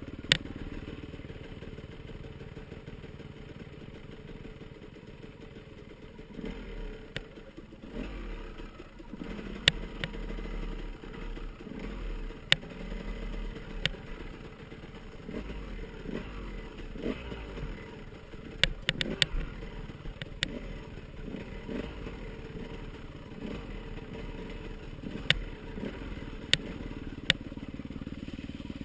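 Off-road motorcycle engines running and revving up and down, with a scatter of sharp clacks and knocks, the loudest at the very start and a quick cluster near the middle.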